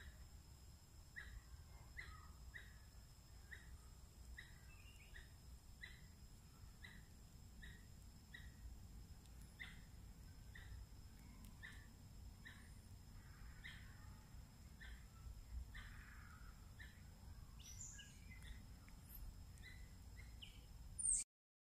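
A small bird repeating a short chirp over and over, a little more than once a second, over a faint steady high-pitched whine and a low outdoor rumble. A sharp click sounds near the end.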